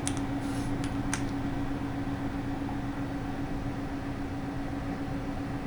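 Newly assembled media server PC running just after power-on, its fans making a steady hum with a low held tone. A few light clicks in the first second or so.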